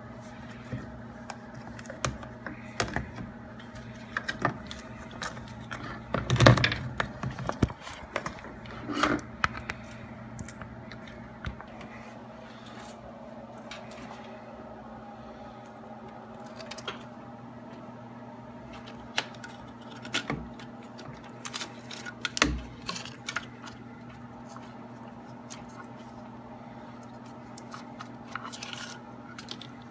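Intermittent clinks, taps and knocks of hand tools and metal parts being handled, the loudest about six seconds in, over a steady low hum.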